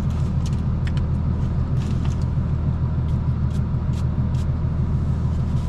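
Infiniti sedan's engine idling, a steady low hum heard from inside the cabin, with a few faint light clicks scattered through.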